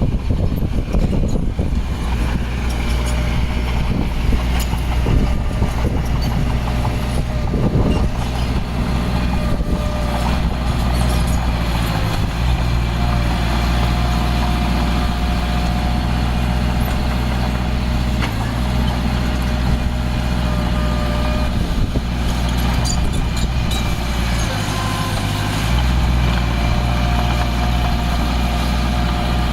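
Heavy diesel construction machinery running steadily, its engine note shifting a little about midway and again near the end, with scattered clanks and knocks.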